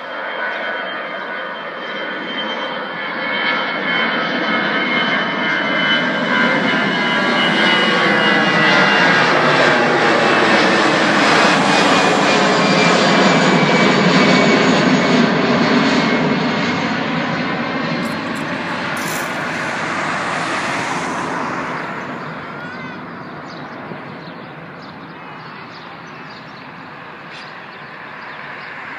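Airbus A320 jet airliner's engines at takeoff power as the plane passes by: the jet noise swells to its loudest about halfway, with whining tones sliding steadily down in pitch, then fades away in the last third.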